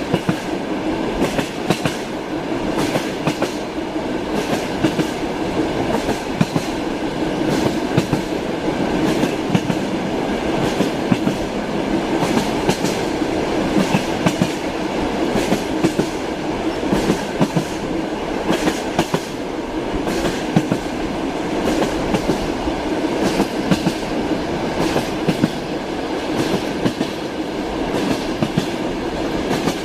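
Train wheels running over rail joints: a steady rolling rumble with a continual clickety-clack of short knocks.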